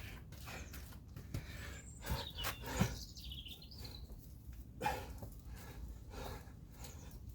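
Thuds and knocks of a person's hands and feet hitting the floor during burpees, the loudest about three seconds in, with birds chirping faintly in the background.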